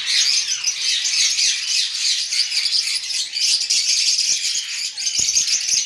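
A crowd of small caged birds chirping and chattering all at once in a dense, continuous, high-pitched din, like an aviary full of many birds calling over one another.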